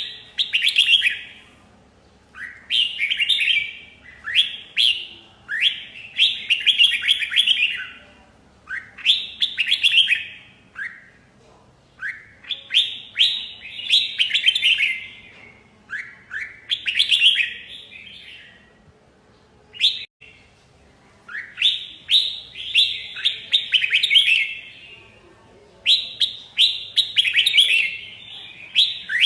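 Red-whiskered bulbul singing: short, rapid warbling phrases repeated every second or two, with brief pauses between them.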